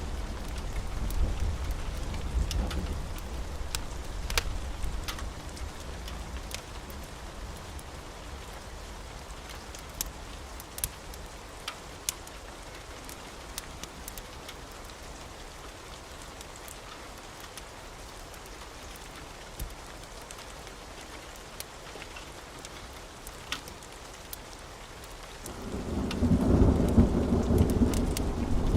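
Wood fire burning in a fireplace: scattered sharp crackles and pops over a steady hiss. A low rumble of the fire swells up loudly near the end.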